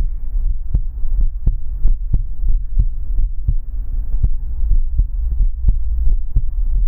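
A human heartbeat, close up: regular soft thumps, about three a second, over a steady low hum.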